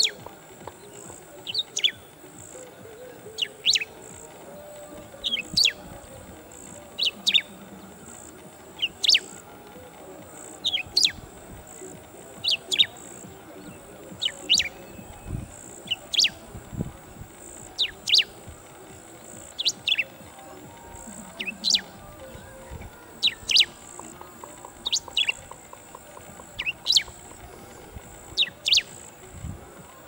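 Bristled grassbird calling: a short, sharp double note that sweeps steeply down in pitch, repeated at a steady pace of about one call every two seconds.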